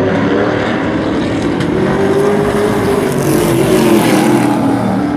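Race truck engines running at race speed, with one engine's pitch climbing about two seconds in and dropping back near four seconds.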